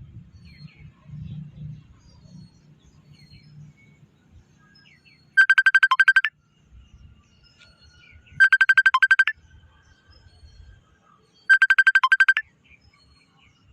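Phone ringtone: three short trilling electronic rings, each about a second long and about three seconds apart, with a faint low rumble before and between them.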